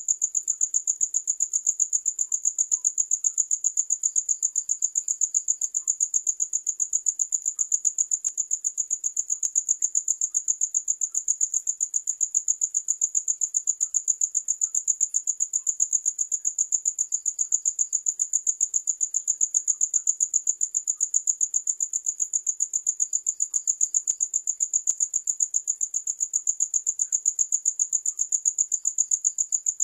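Cricket chirping continuously: a high-pitched chirp repeated in a fast, perfectly even rhythm that never changes.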